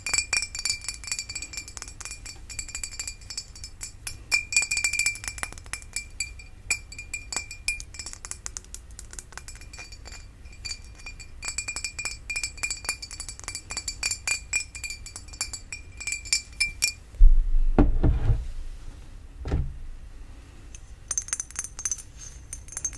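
Rapid, continuous tapping on a glass flower vase, each tap ringing with the same clear glass tone. About two-thirds of the way through come two dull thuds as the glass is handled or set down. Quick tapping resumes near the end with a higher ring.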